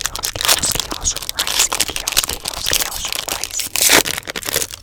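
Crinkling and crackling of a foil Pokémon card booster-pack wrapper being handled, in quick dense rustles with a louder crackle near the end.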